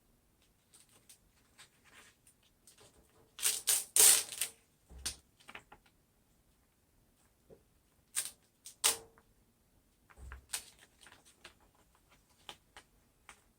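Rustling and crinkling of a sheet of contact paper being handled, with scattered small clicks and taps; the loudest crinkles come about four seconds in, with shorter ones later.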